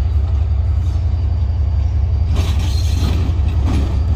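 A diesel-hauled passenger train's low, steady rumble as it moves slowly from a loop line back onto the main line; from about two seconds in, rattling and clanking join in.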